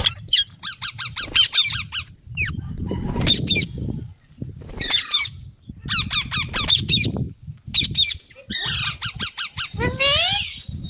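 Green parrot calling in several bursts of rapid, sharp, high-pitched squawks, each burst a quick run of repeated notes.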